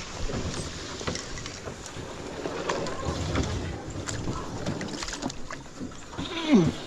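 Canoe being paddled and pushed through a shallow, snag-filled swamp slough: water noise from the paddles with frequent knocks of paddles and wood against the hull. Near the end a brief sound falls in pitch, the loudest moment.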